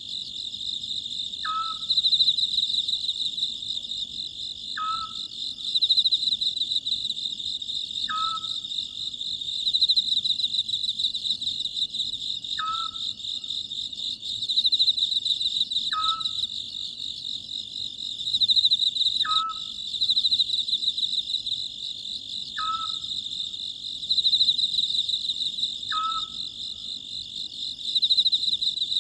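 Oriental scops owl calling: a short call, falling in pitch, repeated about every three seconds, over a steady, shimmering high trill of night insects.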